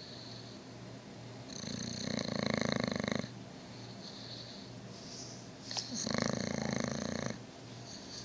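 Dog snoring in its sleep: two long snores about four seconds apart, each lasting about a second and a half, with quieter breathing between them.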